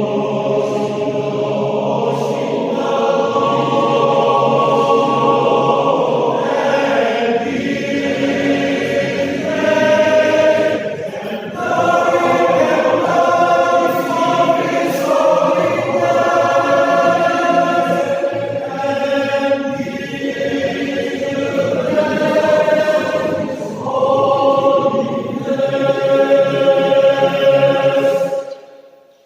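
Men's choir singing in harmony, in long held phrases with short breaks between them; the singing cuts off abruptly near the end.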